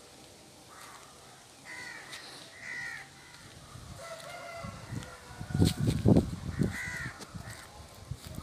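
Birds calling in short, arched calls, a few times. Loud low buffeting on the microphone in the middle.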